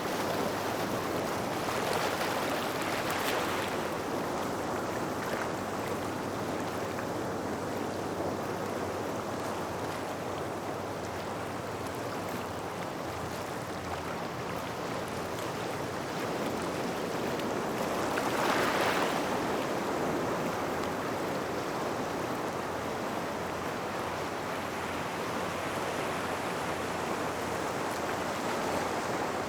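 Small waves washing onto a gravel shore: a steady hiss of water, with louder surges as waves break about two seconds in and again about two-thirds of the way through.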